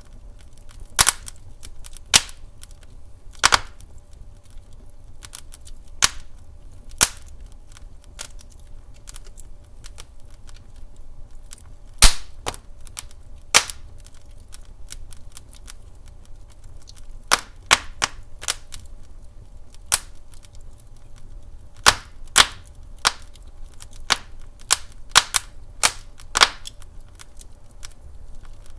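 Wood fire in a fireplace crackling, with irregular sharp pops coming every second or so over a faint steady background. The loudest pop is about twelve seconds in.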